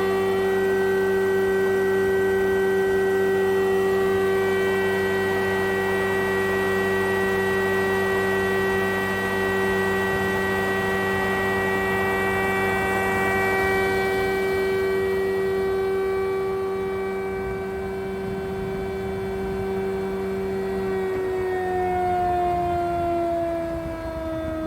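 JAROMA DSMB 63 thickness planer running, its 5.5 kW motor and four-knife cutterhead giving a steady hum with a whine over it. Near the end the pitch starts to fall as the machine spins down.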